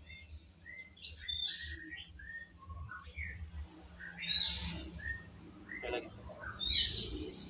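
Small birds chirping in a string of short, high notes, loudest about four and a half and seven seconds in, over a low steady hum.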